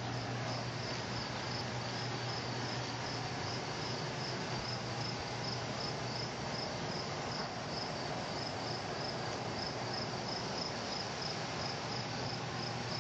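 Crickets chirping in a steady, evenly spaced rhythm, over a steady low hum.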